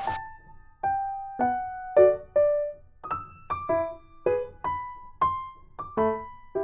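Background piano music: a slow line of single notes and small chords, each struck and left to ring away.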